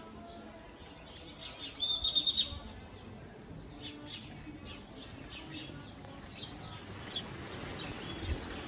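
Birds chirping, with short high calls throughout and a louder, quick run of repeated notes about two seconds in.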